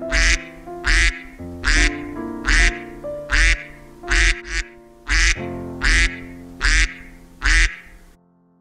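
Duck quacking repeatedly: about ten loud quacks evenly spaced a little under a second apart, over gentle background music with sustained keyboard notes. Both stop shortly before the end.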